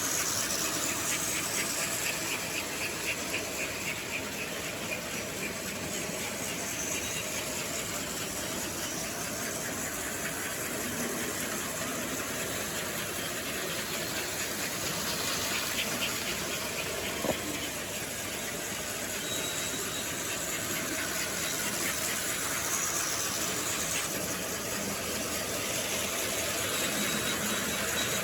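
Model electric train running on its track: a steady motor hum and wheel rattle, with stretches of fast rhythmic clicking from the wheels over the rail joints and one sharp click about seventeen seconds in.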